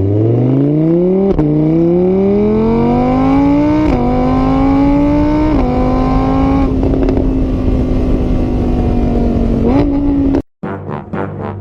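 A vehicle engine accelerating through the gears: its pitch rises, drops at each gear change three times, and climbs again before holding steady. It cuts off suddenly near the end.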